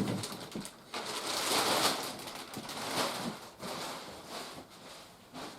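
Packaging rustling and crinkling as a large toy playset is handled and unpacked, in irregular swells with a few light knocks, dying down near the end.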